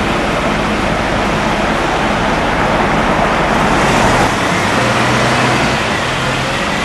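A large vehicle's engine running close by over steady traffic noise, its low note changing about four seconds in.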